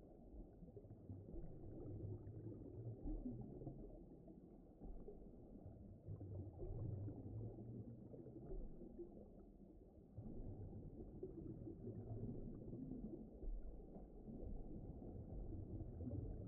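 Low, muffled rumbling ambience with nothing high-pitched in it, swelling and ebbing every few seconds, like a deep underwater soundscape.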